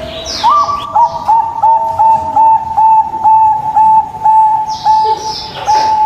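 Zebra dove (perkutut) cooing, a long run of short, clear, hooked notes repeated about three times a second, with small birds chirping high above it near the start and the end.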